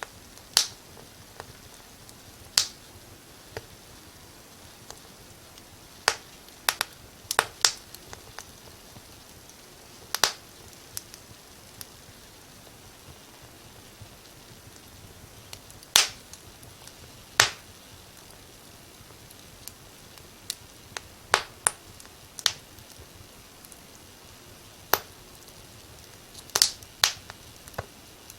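Wood fire crackling in a fireplace: sharp, single pops at irregular intervals a few seconds apart, some in quick pairs, over a steady soft hiss.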